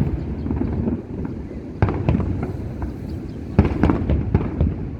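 Aerial fireworks going off: a continuous low rumble and crackle, with sharp shell bursts about two seconds in and again near three and a half seconds.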